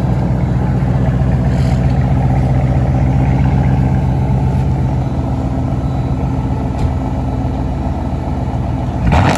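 Dodge Charger engine with a straight-pipe exhaust, mufflers and resonators deleted, running steadily at an even engine speed.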